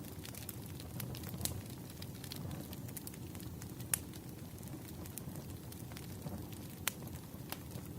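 Campfire crackling: a steady low rumble with scattered sharp pops, the loudest about four seconds in and again near seven seconds.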